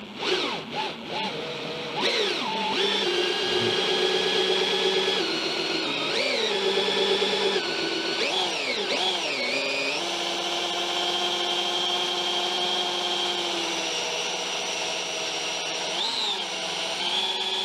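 Cordless DeWalt drill spinning a drill-driven transfer pump to pump thick 75-140 gear oil into a differential. It runs steadily as a motor whine, with its speed dipping and rising again several times.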